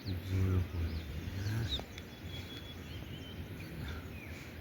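Small birds chirping on and off. During the first two seconds a low, drawn-out pitched sound, a voice or an animal's call, is louder than the birds.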